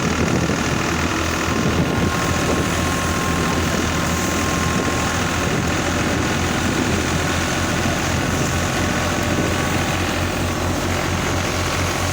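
Tractor engine running steadily under load while driving a grain thresher, a constant mechanical drone with a faint steady whine.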